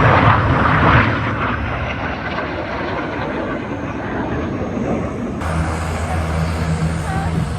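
Red Arrows BAE Hawk T1 jets flying by, the jet engine noise loudest in the first second or so, then easing to a steadier sound. About five seconds in it changes abruptly to a steady low hum.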